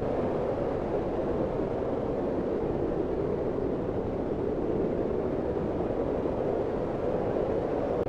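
Wind blowing steadily: a deep, even rushing noise with no gusts or breaks.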